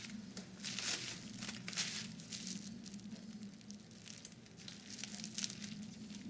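Scratchy scraping and rustling of a tool prying at the plastic parts of a vintage Philips radio cassette recorder during disassembly, in several short bursts, over a low steady hum.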